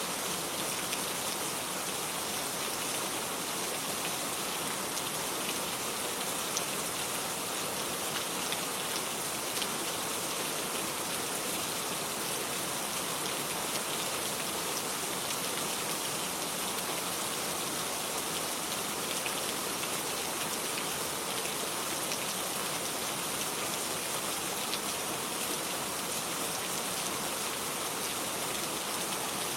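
Steady rain falling on garden surfaces, an even hiss with scattered small drop ticks.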